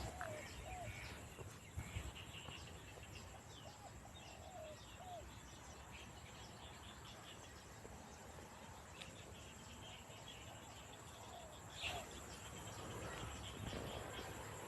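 Faint outdoor ambience of birds chirping, with a steady insect drone and a few short curved calls.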